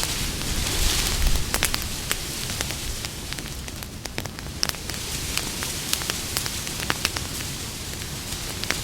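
Campfire burning: irregular sharp crackles and pops of burning wood over a steady hiss of flame, which swells briefly about a second in.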